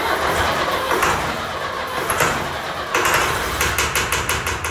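Long 360 tractor's diesel engine cranking on the starter and firing on ether, knocking hard and running rough. The knocking is a sign of air in the fuel system.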